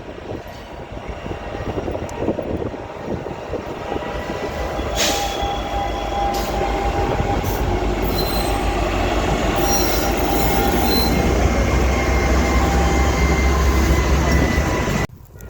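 Railroad train rolling past, its low rumble growing steadily louder, with high steel-wheel squeal tones sounding through the middle. The sound cuts off abruptly near the end.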